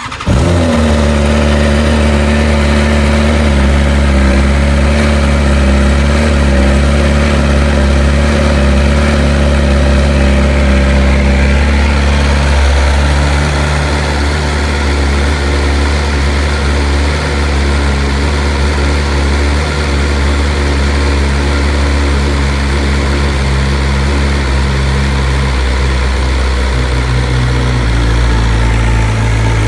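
BMW S1000RR inline-four engine catching and starting, then idling steadily, with a slight shift in its note partway through.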